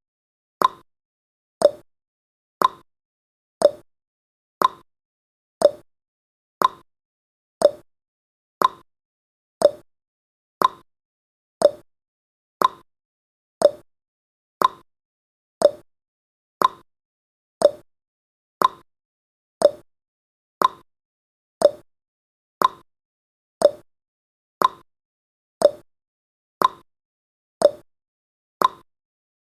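Clock-style tick-tock sound effect of a countdown timer, one short sharp tick every second, alternating between a higher and a lower tick.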